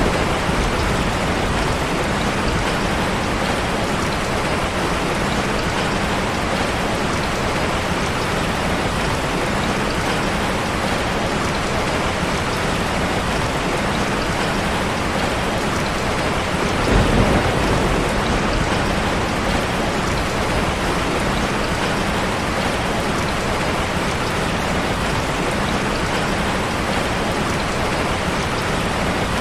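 Steady, dense rain with no breaks. About two-thirds of the way through, a short low swell rises out of the rain for about a second.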